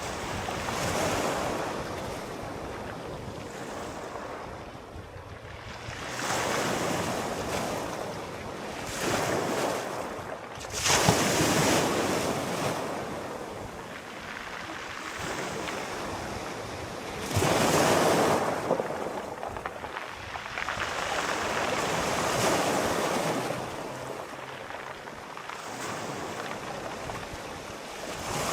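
Sea waves breaking and washing up the shore in repeated swells a few seconds apart, the strongest surges about eleven and eighteen seconds in.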